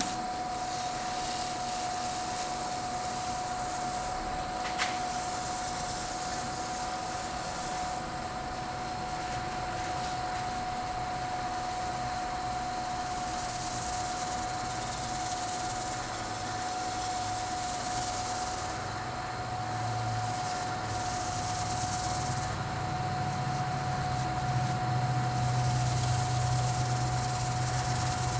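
Wood lathe running steadily at about 530 rpm with a steady whine, while a cloth buffs wax off the spinning bowl with a shifting hiss. A low hum grows louder in the last third, and there is one small click about five seconds in.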